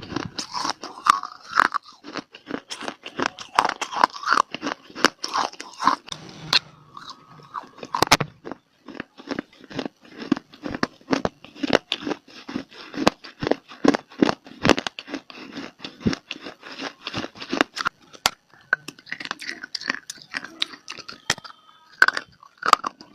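Close-miked chewing of dry clay (mitti) in the mouth: a dense run of sharp crunches, about three or four a second through the middle, thinning out for a few seconds near the end.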